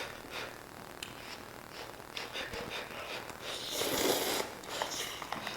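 Hot instant bowl noodles being eaten fast: scattered small clicks and short slurping noises, with one longer, louder slurp about four seconds in.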